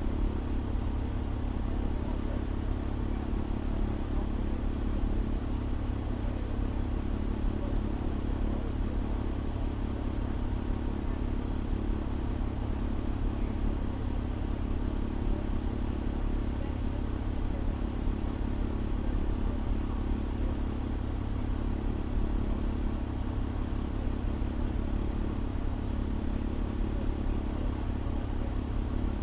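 Fire engine's diesel engine running steadily, a constant low drone with no change in pitch, heard from inside the cab, with a faint steady high whine over it.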